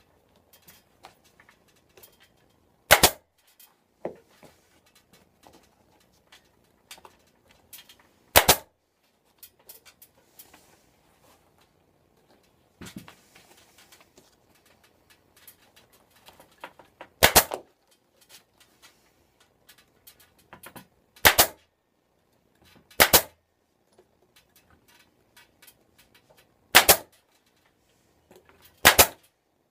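Staple gun firing staples into a motorcycle seat pan, fixing the stretched vinyl cover: about seven sharp snaps a few seconds apart, with faint handling noise of the vinyl in between.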